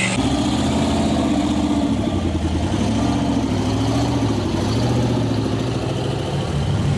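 Mud truck's engine running loud, revving up and down so its pitch rises and falls in slow waves.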